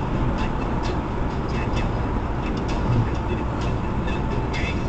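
Steady low road and tyre rumble heard inside an electric car's cabin at freeway speed, with faint scattered ticks.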